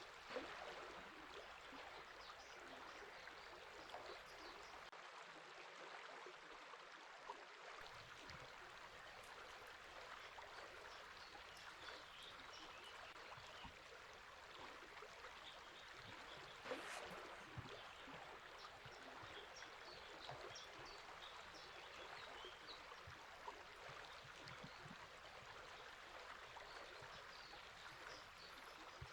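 Steady rushing of a river or stream, faint, with scattered high bird chirps over it.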